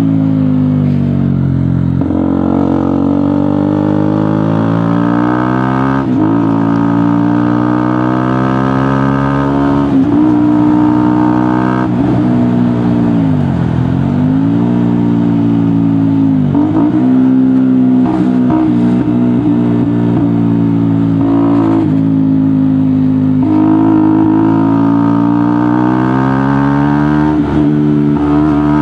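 KTM Duke motorcycle with a GPR aftermarket exhaust under way. The engine note climbs steadily, drops abruptly three times in the first twelve seconds as it shifts up, then falls away as the bike slows, with a few quick blips. It holds steadier for a while and climbs again near the end.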